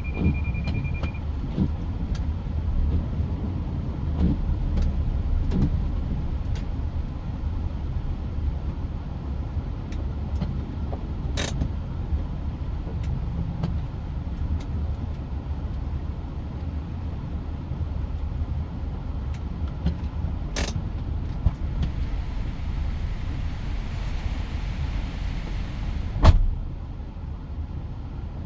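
Mitsubishi Pajero Sport on the move: steady low engine and road rumble. Three sharp knocks cut through it, the last and loudest near the end.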